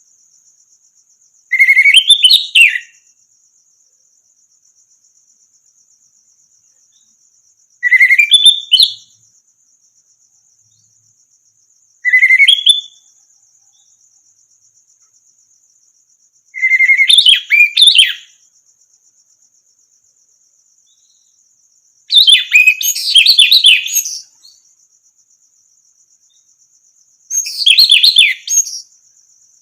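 Orange-headed thrush singing: six short, varied whistled phrases spaced a few seconds apart, the fifth the longest, over a steady high buzz.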